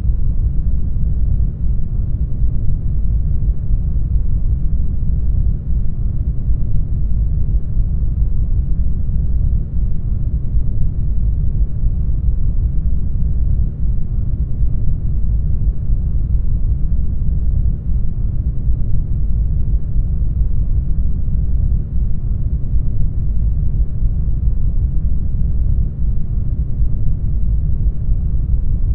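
Brown noise: a steady, deep rushing hiss, strongest in the bass and thinning out toward the treble, with no change throughout.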